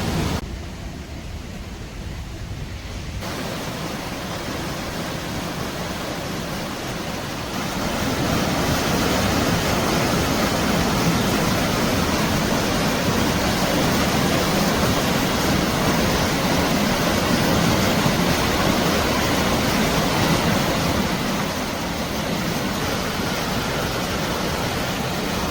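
Rushing water of the Temperance River falls: a steady noise that grows louder about eight seconds in.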